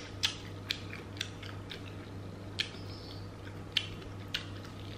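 Crispy fried chicken being eaten: irregular short crunches and wet mouth clicks from chewing, with the crust crackling as it is pulled apart by hand, over a faint steady low hum.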